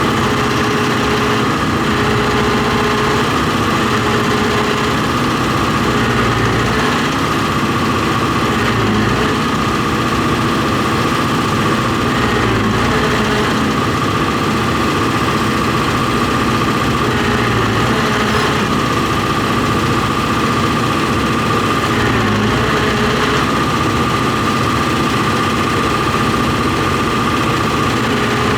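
John Deere 245G excavator's diesel engine running steadily at a constant speed, with a steady high whine over the engine note. The mechanic suspects it is not firing on all cylinders.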